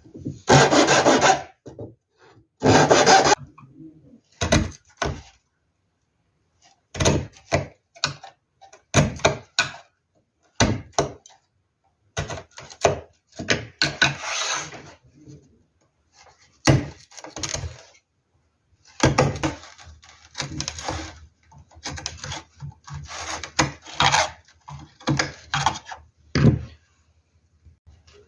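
Hand tool working wood in irregular strokes, some short and some lasting about a second and a half, with pauses between them.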